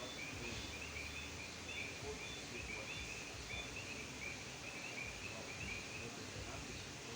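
A frog chorus: a dense, continuous run of short high chirps, with a fainter series of evenly spaced short peeps above it.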